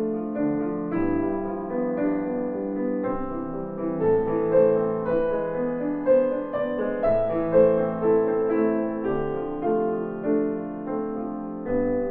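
Background piano music: a slow, gentle melody of held notes over chords.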